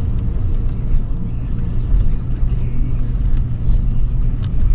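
2013 Toyota 4Runner V6 driving over sand: a steady low rumble of engine and tyres, with light rattles and a sharp click at the very end.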